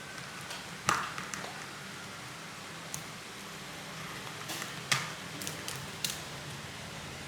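A few sharp clicks and taps of a small hard object over a low steady hum. The loudest comes about a second in with a short ring, and scattered others follow near the middle and later on.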